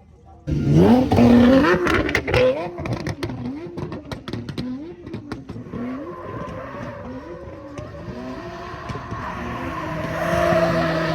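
Car engine revved hard all at once, climbing in pitch with sharp cracks at first, then blipped up and down over and over, about once every 0.7 seconds, before settling into a steadier drone near the end.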